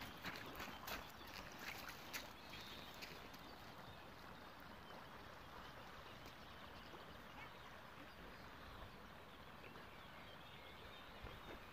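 Faint outdoor ambience: a steady low hiss, with a few soft clicks in the first three seconds.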